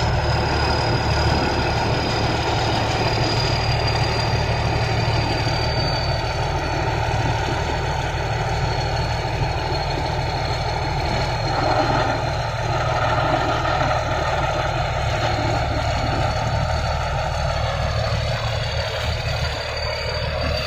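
Thai Seng Yont 'Chao Phayu 4.0' rice combine harvester running steadily, a low diesel engine hum with a thin high whine above it that sinks slightly in pitch.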